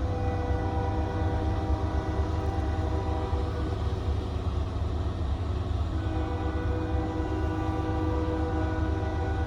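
Diesel locomotive air horn sounding two long blasts, each a steady chord of several notes lasting about three and a half seconds, a couple of seconds apart, over a steady low rumble.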